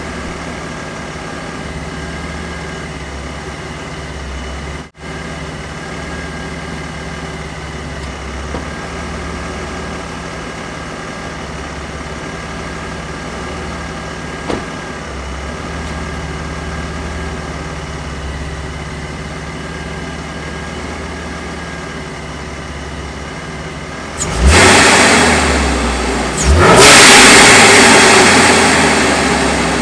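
Supercharged Camaro V6 engine idling steadily, heard from the front of the car, then revved hard twice near the end. The second rev is held for a couple of seconds before falling away.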